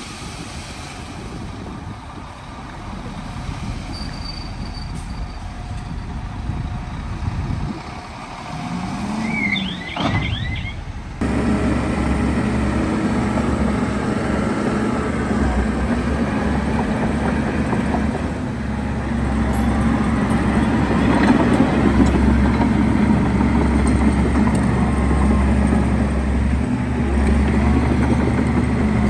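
Diesel engines of heavy earthmoving machinery running: a fainter engine rises and falls in pitch once, then about eleven seconds in the sound jumps suddenly to a loud, steady, close-up diesel engine.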